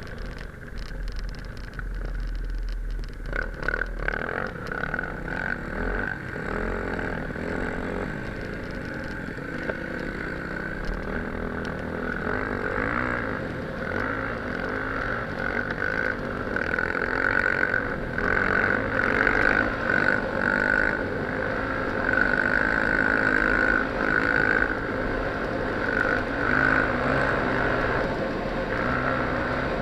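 Enduro motorcycle engine running steadily under way on a dirt track, heard from the riding bike with wind rush on the microphone; it grows somewhat louder about halfway through.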